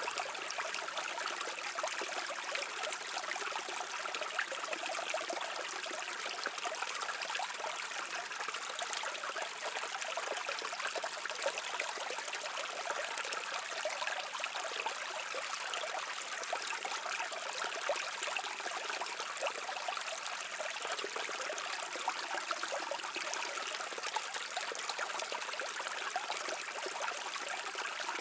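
Brook water running over rocks: a steady rushing and trickling.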